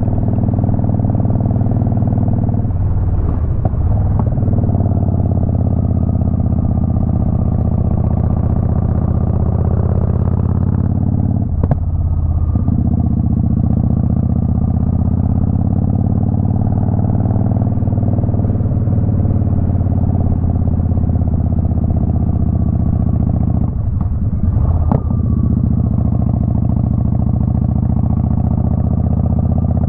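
Motorcycle engine running steadily on the move, its note drifting slowly up and down with speed. The note breaks briefly three times, a few seconds in, near the middle and near the end, each time with a click.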